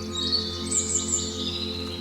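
Several songbirds chirping and trilling, busiest in the first second and a half, over a steady, sustained ambient music drone of held low tones.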